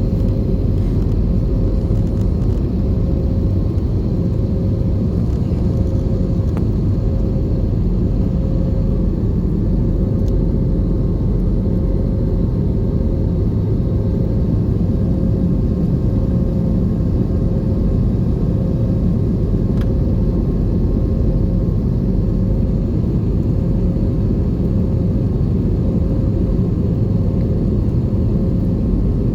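Steady drone of an Airbus A320's engines heard inside the passenger cabin: a deep, even rumble with a faint constant hum over it.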